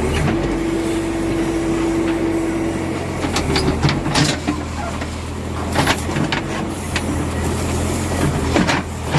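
Backhoe loader's diesel engine running steadily, with three spells of sharp metallic clanks and knocks over it.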